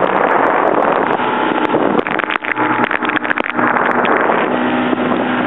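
Steady rush of wind and water on a boat at sea, with the faint hum of the boat's motor running underneath and a few short knocks around the middle.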